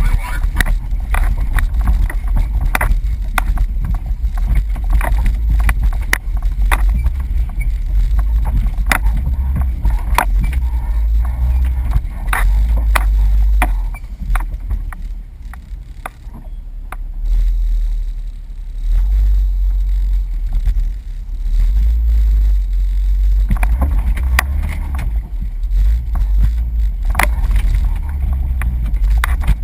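A Jeep driving over a rough off-road trail: a heavy low rumble with frequent knocks and rattles as it bumps along, easing briefly about halfway through.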